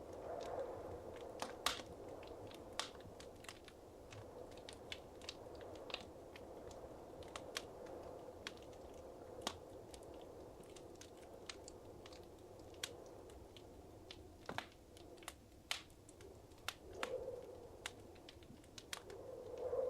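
Wood fire crackling in a fireplace: irregular sharp pops and snaps over a soft steady rush of flame.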